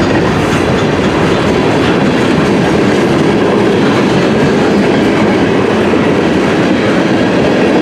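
Cars of a long mixed freight train rolling past, a loud, steady noise of steel wheels on the rails.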